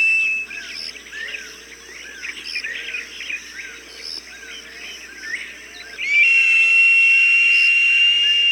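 A falcon's cry, played as a bird-scaring call: a long, loud, steady high whistle that cuts off just after the start and comes back about six seconds in, holding to the end. In between, small birds chirp quietly in the background.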